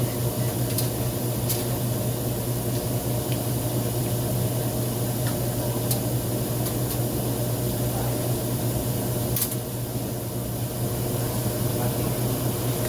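Electric blower fan running steadily on a homemade used-engine-oil stove, a constant low hum under rushing air, with a few faint clicks.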